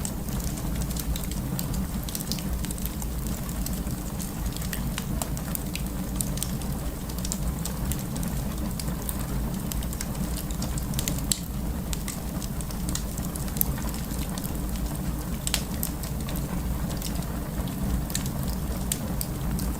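Wood fire crackling: irregular sharp pops and snaps over a steady low rumble, a few louder pops scattered through.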